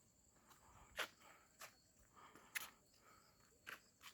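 Faint footsteps: a few soft, sharp steps at uneven spacing of about a second, over a faint steady high-pitched whine.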